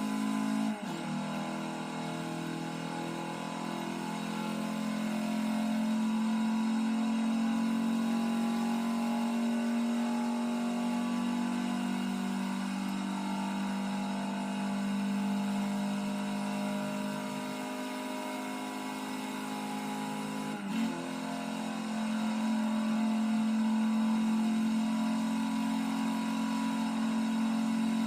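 2015 Audi TTS Coupé's turbocharged 2.0-litre four-cylinder under full-throttle acceleration, its engine note held high and steady through long pulls. An upshift about a second in and another near 21 seconds each make the pitch dip briefly.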